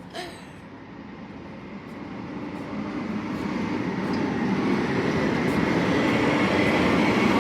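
Garbage truck's diesel engine approaching, a low drone growing steadily louder as the truck draws near.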